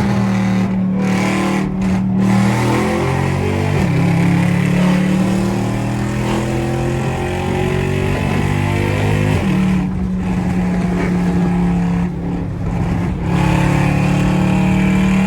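Loud car engine droning at steady revs, its pitch dropping a couple of seconds in and stepping back up about nine and a half seconds in.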